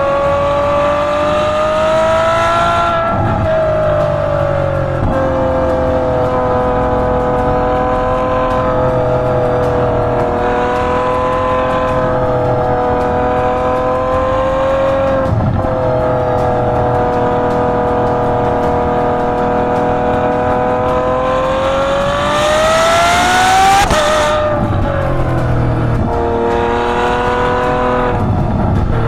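Ferrari F12 Berlinetta's 6.3-litre V12 exhaust, heard close from the rear bumper, at steady revs for most of the time. The engine note climbs briefly and falls at a gear change about three seconds in. Near the end it rises steeply in its loudest, hardest pull and drops sharply at an upshift.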